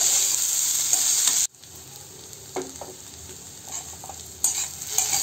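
Chopped banana blossom sizzling as it fries with spices in a metal wok while being stirred with a metal spatula. The sizzle cuts off suddenly about a second and a half in, leaving a quieter stretch with a few scrapes, and comes back loud near the end.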